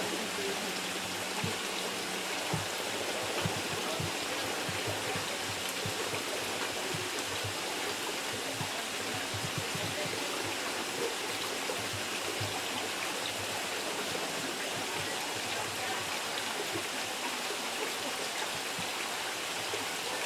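Steady rush of running water, like a stream or small waterfall, with a few faint low knocks.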